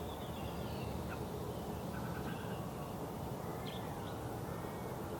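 Faint, scattered short bird chirps and thin calls over a steady low background rumble.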